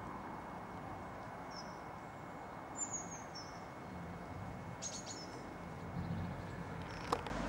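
Small birds chirping a few short, falling calls over a steady background hum, with a sharp click just before the end.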